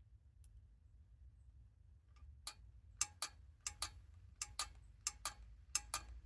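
A run of sharp mechanical clicks, about a dozen in rough pairs over three or four seconds starting two seconds in, as a part on the engine is worked back and forth to check it operates.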